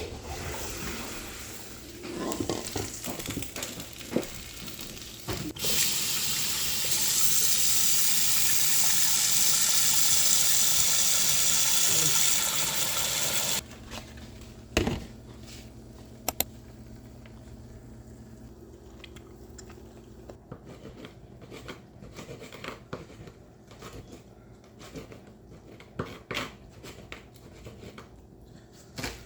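Kitchen tap running into a sink for about eight seconds, then turned off abruptly. Scattered clicks and knocks of kitchen things being handled come before and after it.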